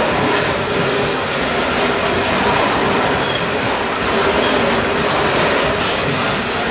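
Coal hopper wagons of a freight train rolling steadily past close by: a continuous rumble of steel wheels on rail, with scattered clicks as the wheels pass over rail joints.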